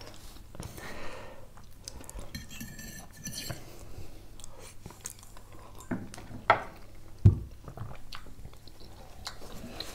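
Close-miked chewing and mouth sounds of eating, with a metal fork scraping and clicking on a ceramic plate. Two sharp knocks stand out a little past the middle.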